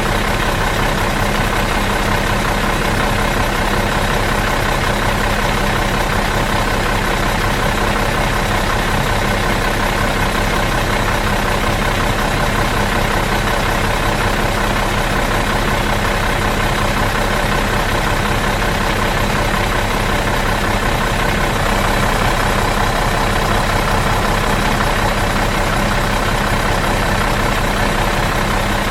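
Bus engine idling in neutral, a steady, even drone that does not change.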